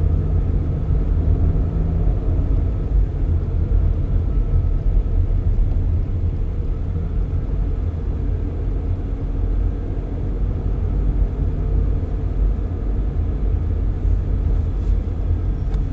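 Steady low rumble of a car on the move, heard from inside the cabin with the windows open: road and wind noise with the engine underneath, plus a few faint ticks near the end.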